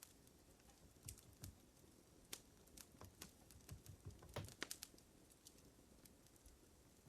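Faint fire crackling: irregular sharp snaps and pops over a low hiss, with a quick cluster of them about four and a half seconds in.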